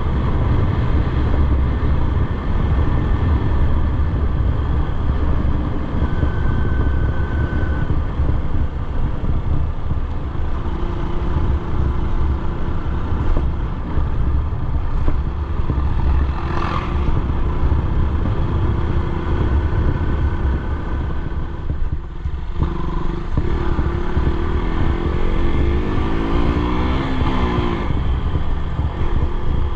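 Motorcycle riding along the road: its engine running steadily under heavy wind rumble on the microphone. There is a short steady higher tone about six seconds in, and the engine pitch sweeps up and down near the end.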